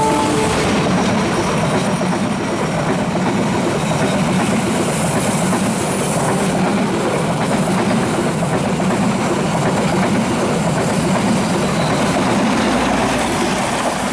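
A train passing close by: a loud, steady rumble and clatter of the carriages' wheels on the rails. The tail of its horn cuts off in the first half second.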